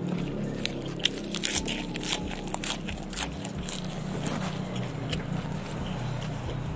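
Close-up chewing of lettuce leaf and raw squid: wet crunching with many sharp crackling clicks, thickest in the first few seconds, then thinning out.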